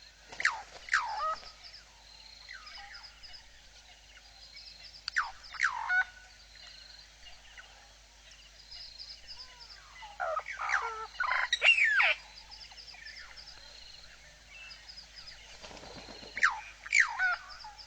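Wild bird calls in four loud bursts, roughly every five seconds, each made of sharp, steeply falling whistled notes; the third burst is longest. Behind them runs a faint, steady, high pulsing chirr.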